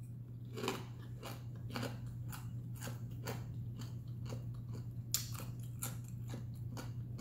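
A person chewing food close to the microphone: a crunchy bite about three times a second, over a steady low hum.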